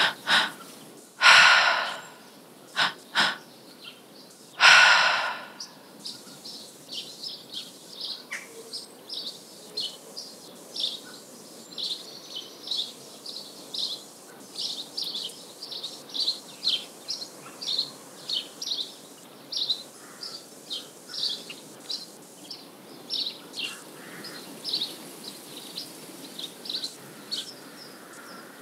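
A few deep, audible breaths in the first five seconds, the first and the last of them long and loud, then a steady run of short, high bird chirps, a few a second, over a soft outdoor nature background.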